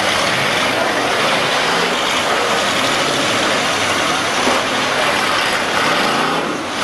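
Demolition derby car engines running under load, with a steady din of voices.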